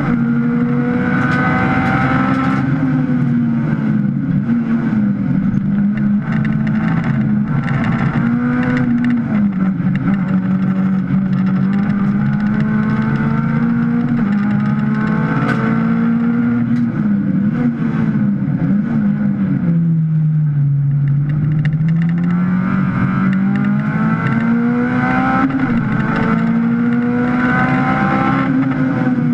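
Honda Civic race car's four-cylinder engine, heard inside the stripped cabin, running hard at high revs under racing load; its pitch rises and drops with gear changes and throttle, sags lowest about two-thirds of the way through as the car slows for a corner, then climbs again.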